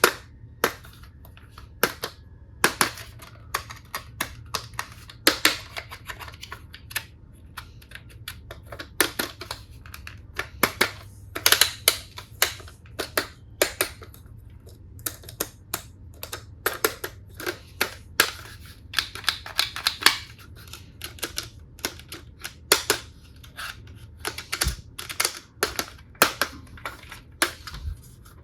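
Hard plastic toy tool pieces being handled, with irregular sharp clicks and taps, sometimes in quick clusters, over a faint steady low hum.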